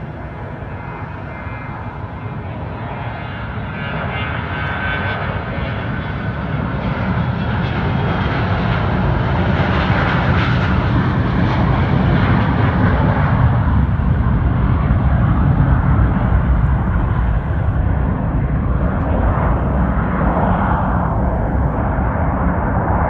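McDonnell Douglas MD-83 airliner's two rear-mounted JT8D turbofan jet engines at takeoff power, a rumbling roar that grows louder over the first several seconds and then holds loud and steady.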